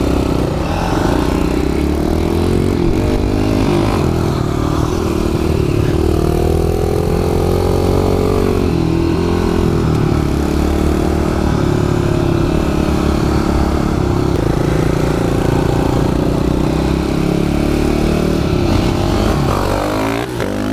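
Kawasaki KLX110 pit bike's small single-cylinder four-stroke engine running under way, its pitch rising and falling with the throttle and climbing in a rev near the end.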